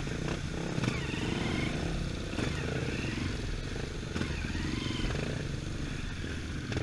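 Trail motorcycle engine running, its pitch rising and falling unevenly.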